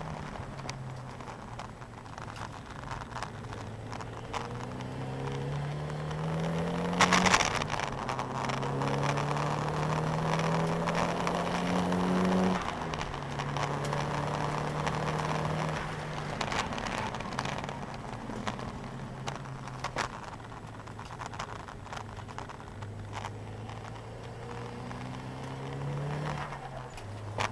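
Nissan 200SX engine, heard from inside the cabin, accelerating hard on track. Its pitch climbs and drops sharply at upshifts about seven and twelve seconds in. It holds steady through the middle, then climbs again near the end. A loud, brief burst of noise comes with the first gear change.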